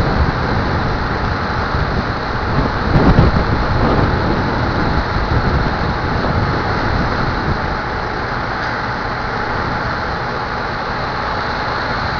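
Wind buffeting the microphone: a steady, rumbling rush with a stronger gust about three seconds in.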